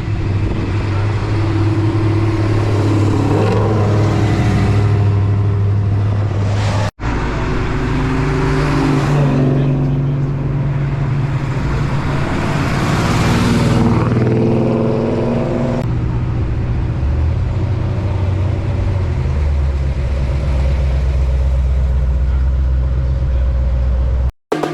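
Car engines running at a low, steady idle, with engines revving up and down in places. The sound cuts off abruptly for a moment about seven seconds in and again near the end.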